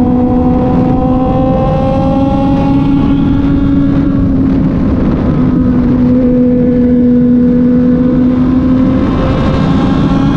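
Kove 450rr single-cylinder motorcycle engine running at a steady cruising speed, its note climbing slowly, easing back, then climbing again near the end, over a dense low rush of wind and road noise.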